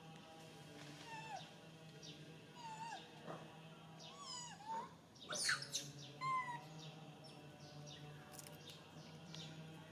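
Macaque monkey calls: a string of short, high, bending squeals, with two louder, harsher shrieks about halfway through.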